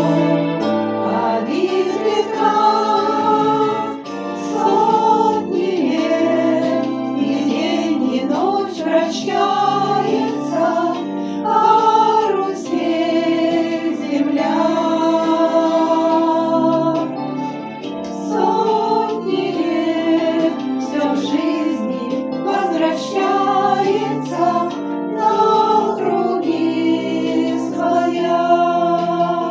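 Music: a group of voices singing a slow song with long held, wavering notes over a sustained accompaniment.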